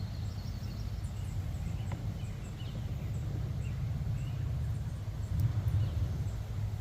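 Honeybees buzzing around an opened hive, a steady low drone that swells briefly near the end, with faint bird chirps above it.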